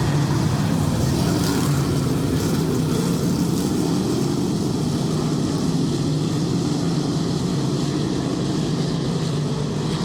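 Dirt track race cars running laps on the oval, a steady, loud, continuous engine drone from the field with no single car standing out.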